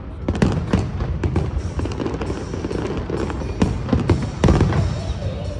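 Aerial fireworks bursting in a rapid, irregular series of sharp bangs over a continuous low rumble, with music playing underneath.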